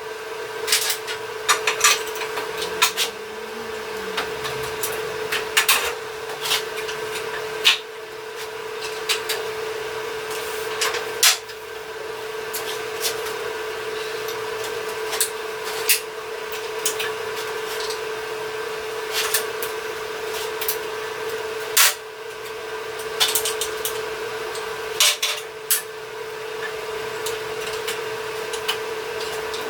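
Shop metalworking: a tool runs with a steady hum, with scraping and sharp clicks or knocks every second or two.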